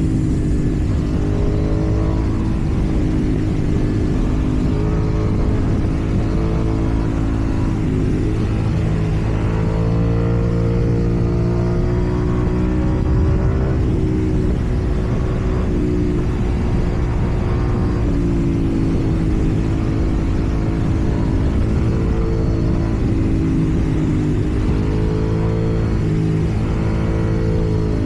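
KTM 790 Duke's parallel-twin engine heard through a loud slip-on exhaust while riding. The engine pitch rises and falls several times as the throttle is opened and rolled off.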